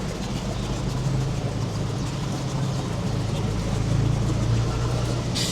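A steady low engine hum over a constant wash of noise, with a short hiss near the end.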